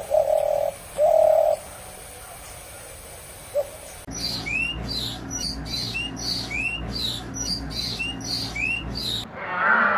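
A pigeon or dove cooing twice, two short steady notes. After a pause, a different bird calls with short rising chirps, about two a second, over background noise.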